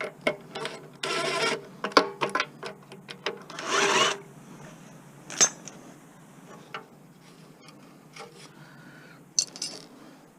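Hand-stripping of lawn mower parts: two short scraping rasps about a second and four seconds in, among scattered clicks and knocks of tools and parts, with quieter handling after about five seconds.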